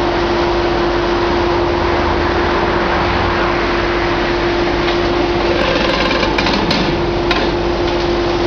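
Heavy hydraulic excavator running steadily at a demolition site, with one constant tone held under a wash of engine noise. Several sharp knocks of impacts come between about five and a half and seven seconds in.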